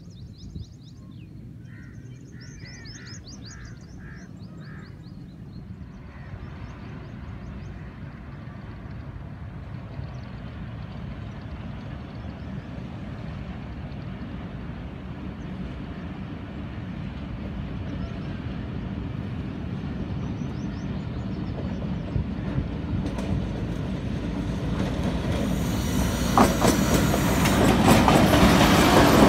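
Pakistan Railways PHA-20 (GE U20C) diesel-electric locomotive hauling a passenger train, its rumble growing steadily louder as it approaches. Near the end it passes close, with wheels clattering over the rails. Birds chirp in the first few seconds.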